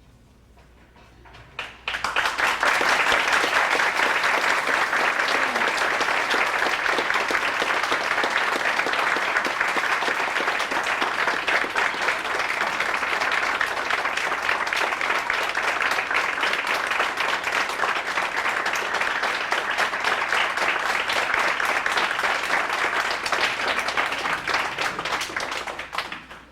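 Congregation applauding: a long, steady round of clapping that starts about two seconds in and stops abruptly near the end.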